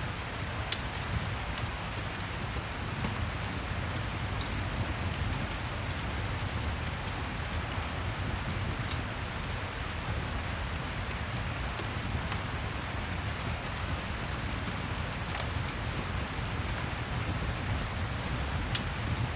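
Rain-and-fireplace ambience: a steady hiss of falling rain with scattered sharp crackles every second or so.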